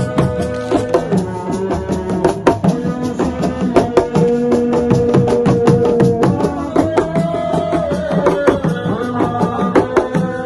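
Live band music with fast, dense hand-drum playing under long held melody notes that shift every second or two.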